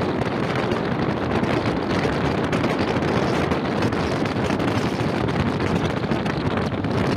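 Running noise of an Indian Railways express train moving at speed: a steady rumble of wheels on rails mixed with the rush of wind past the microphone.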